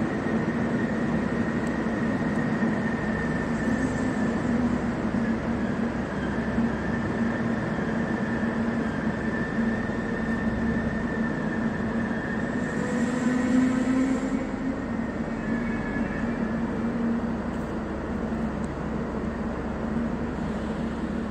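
Trilex diesel multiple unit running at the platform: a steady engine hum with a high, even whine over it, swelling a little in the middle.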